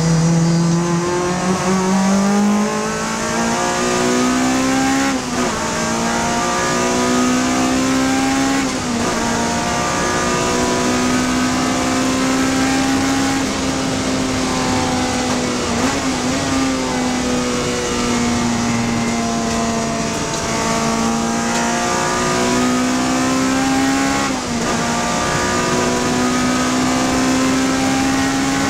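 Honda Civic Type R FD2 race car's four-cylinder engine running hard at high revs. Its pitch climbs and drops again several times as it shifts.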